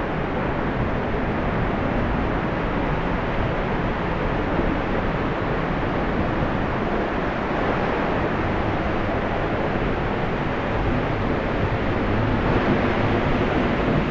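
Steady, loud rush of Middle North Falls, a waterfall, pouring down.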